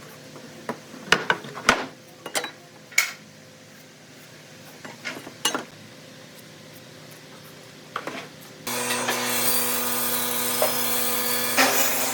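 A few sharp knocks and clatters of tools and wood being handled, then about two-thirds of the way in an electric power tool starts and runs steadily on wood with a motor hum.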